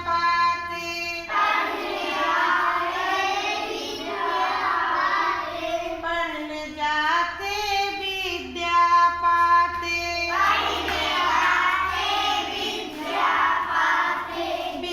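Children singing a Hindi children's poem together, alternating with a single voice singing lines alone.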